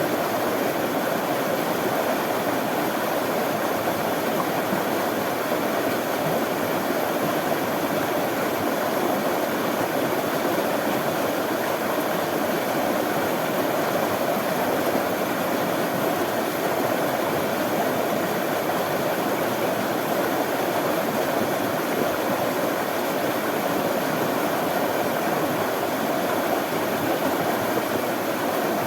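Running water, a stream flowing steadily in an even rushing sound.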